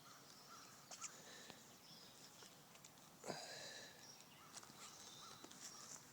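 Near silence: faint outdoor ambience with a few small clicks and faint high chirps, with a slightly louder chirping sound about three seconds in.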